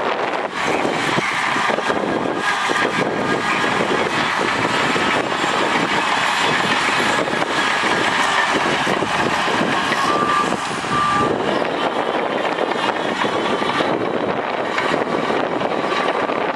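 Heavy diesel earthmoving machinery working under load, a continuous engine and track noise. Two short high beeps sound about two-thirds of the way through.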